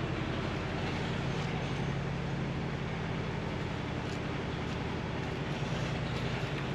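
An engine running steadily at an even, low speed, with a low hum that does not rise or fall.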